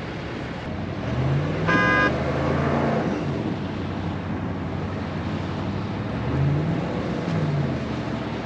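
A vehicle engine running over wind noise, its pitch rising and falling twice as it revs. It gives a brief high tone about two seconds in.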